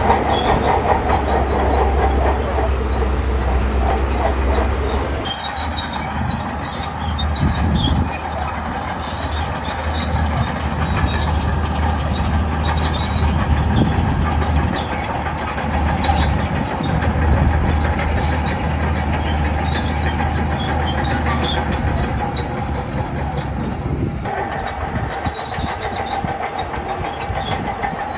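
Shantui crawler bulldozer working: its diesel engine runs steadily under load while the steel tracks clank and squeal.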